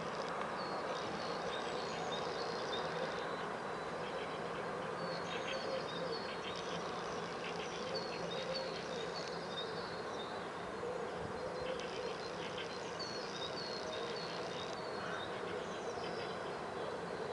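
Songbirds singing in spring, with short high chirping phrases repeated again and again over a steady background noise.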